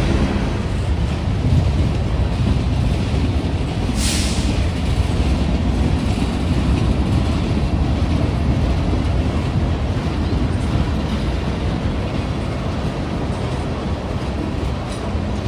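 Train rolling past on the rails: a steady low rumble of the cars, with a brief hiss about four seconds in.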